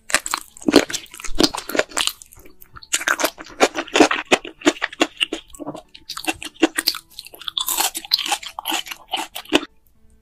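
Close-miked chewing and biting of enoki mushrooms coated in chili sauce: dense, irregular clicks and mouth noises that stop shortly before the end.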